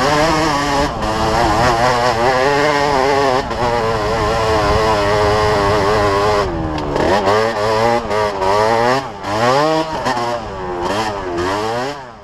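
Yamaha DT125's two-stroke single-cylinder engine running at high revs for about six seconds, wavering slightly. It then revs up and drops back again and again, roughly once a second, before the sound fades out.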